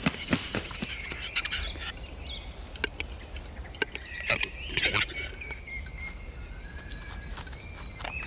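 Capercaillie cocks fighting on a lek: a run of sharp clicks and knocks, dense over the first couple of seconds and sparser after, with high chirping bird calls.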